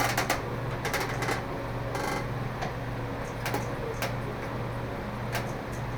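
Scattered light clicks and short rattles of a metal light fixture and its mounting parts being handled and fitted, over a steady low hum.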